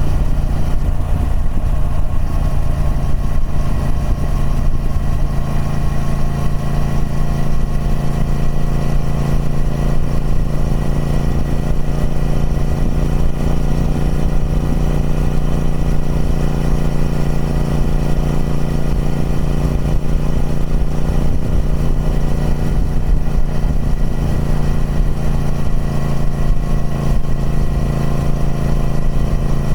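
Triumph Speed Twin 1200's parallel-twin engine running through its stock exhaust at a steady engine speed, with no revving.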